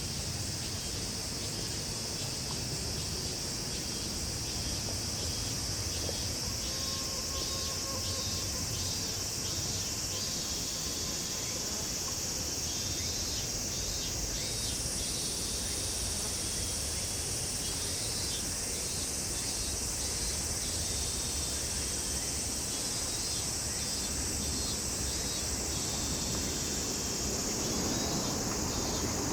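Summer insect chorus: a steady high cicada drone with repeated groups of rapid pulsed chirping from cicadas or crickets.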